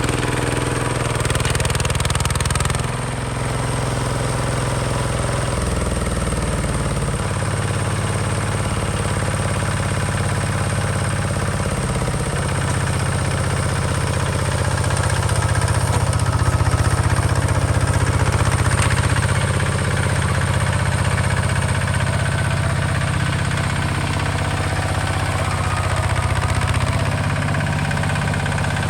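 Hinota HG Gold 155 DI tractor's diesel engine running steadily, its pitch shifting a few times in the first dozen seconds as the engine speed changes.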